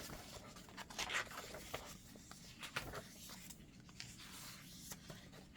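Paper rustling and crinkling as the pages of a handmade junk journal are handled and turned, in faint irregular swishes.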